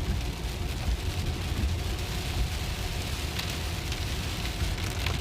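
Rain falling on a Tesla's roof and windshield, with a steady low rumble of tyres on the wet road, heard from inside the cabin.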